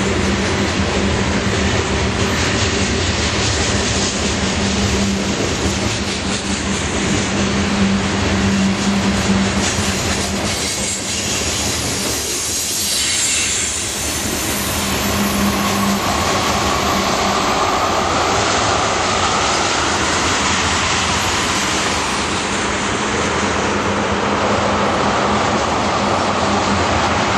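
A mixed freight train's cars, grain hoppers and then tank cars, rolling steadily past, their steel wheels running on the rails.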